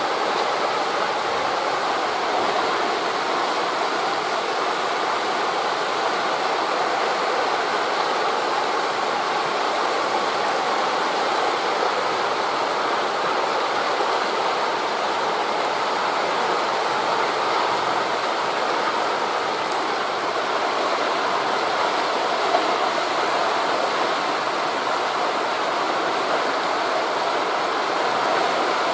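Steady, unbroken rushing of wind through forest leaves blended with distant surf, with no separate wave breaks standing out.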